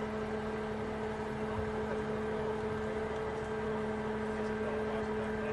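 A motor running steadily, a constant drone holding one pitch without change.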